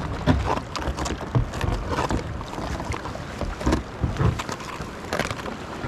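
Kayak pushing through floating glacier ice: chunks of ice knocking and scraping against the hull and paddle in irregular knocks, over water noise.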